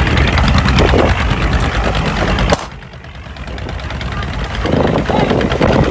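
A boat engine running loud and close, with a fast, even knocking rhythm; the sound drops off abruptly about two and a half seconds in, then builds again with voices near the end.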